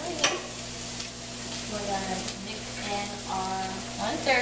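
Lemon pepper chicken pieces frying in a pan, a steady sizzle.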